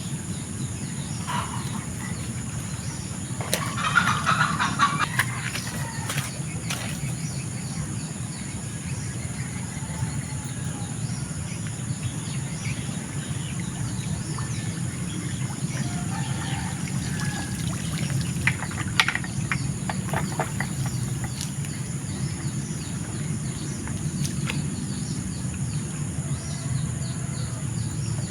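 Birds and chickens calling now and then over a steady low rushing noise, with a louder cluster of calls about four seconds in.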